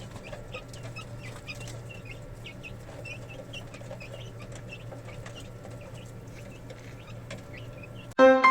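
Chickens clucking and calling in many short, high calls over a steady low hum; loud piano music cuts in abruptly near the end.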